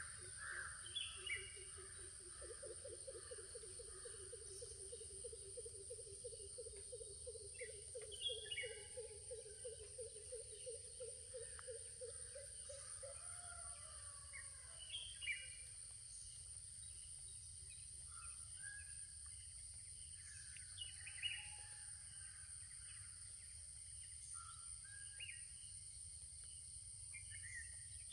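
Morning birdsong: scattered short chirps and calls, with a low call repeated about three times a second from a couple of seconds in until about halfway. Under it all runs a steady high-pitched insect drone.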